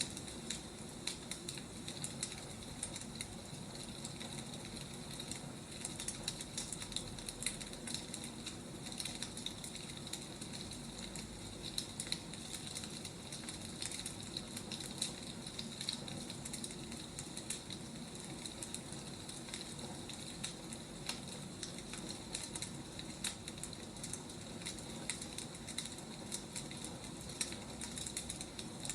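Firewood burning: a steady hiss with frequent small, sharp crackles scattered irregularly through it.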